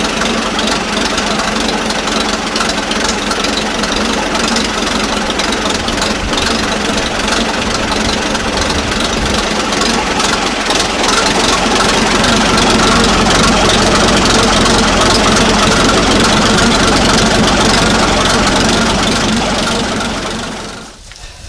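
1940 Fordson N tractor's four-cylinder side-valve engine running steadily. It gets slightly louder about halfway through, then drops away sharply about a second before the end.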